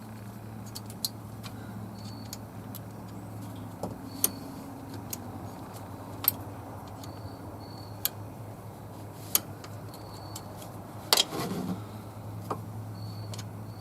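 Sharp metallic clicks and clinks of hand tools on metal, one every second or two, with a louder cluster of clanks about eleven seconds in, over a steady low hum.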